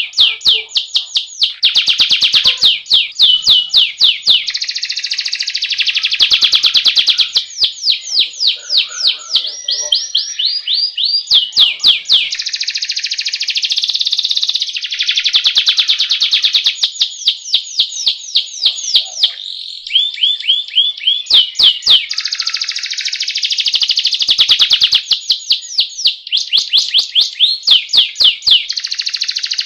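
Domestic canary singing a long, loud, high-pitched song of rolling trills: runs of rapidly repeated notes at changing speeds, phrase after phrase with only brief breaks.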